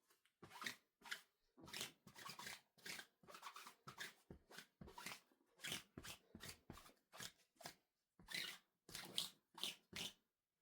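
Clean clothes rustling in short, irregular swishes and flaps, about two a second, as garments are handled and folded. Faint.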